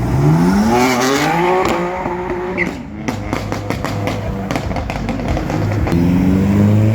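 A car engine revved hard, its note climbing steeply in the first second or so. A quick run of sharp exhaust crackles and pops follows as the revs drop, and the engine climbs again near the end.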